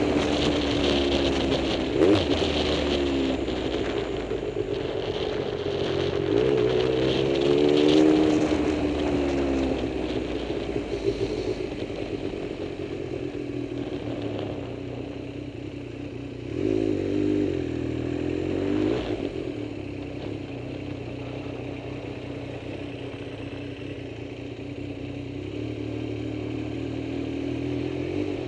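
Vehicle engine running with its speed rising and falling several times, as in revving or shifting through gears, with some rattle. It then settles to a steadier, lower drone for the last ten seconds or so. This is the engine of a vehicle with a freshly replaced clutch.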